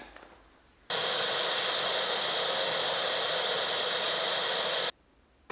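Vacuum cleaner running, sucking dust out of a Fender Rhodes electric piano. It is a steady, loud rushing noise that cuts in suddenly about a second in and stops suddenly about four seconds later.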